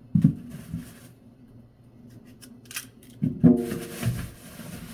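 Small knife clicks and scrapes while a potato is peeled by hand, with a low knock at the start and a short hummed vocal sound about three and a half seconds in.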